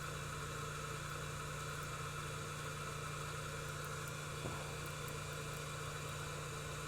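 Steady low hum with an even hiss over it, unchanging throughout: running workbench equipment.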